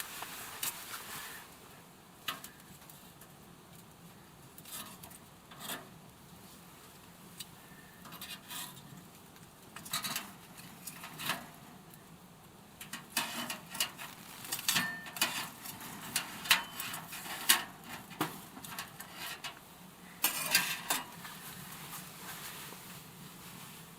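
Irregular light clicks, knocks and rustling of gear being handled by hand, in small clusters.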